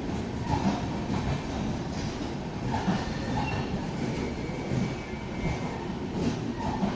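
Indian Railways train moving through the station, a continuous rumble of steel wheels on the rails with irregular knocks.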